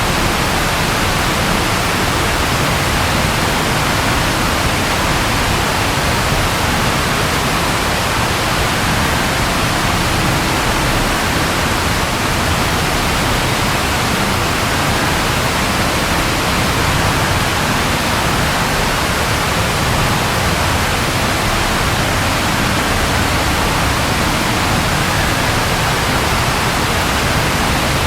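Continuous steady rain, an even hiss that does not change.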